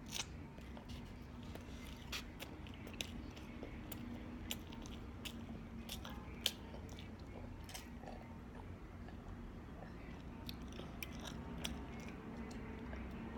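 Close-up mouth sounds of a person eating: scattered soft clicks and smacks of chewing. A faint steady hum runs underneath.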